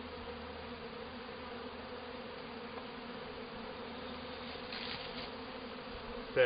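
Honeybees buzzing in a steady hum around an opened hive, the colony stirred up while its boxes are being taken apart and reversed.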